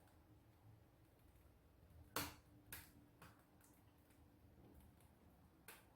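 Wood fire burning in a wood stove: a few sharp crackles and pops over near silence, the loudest about two seconds in.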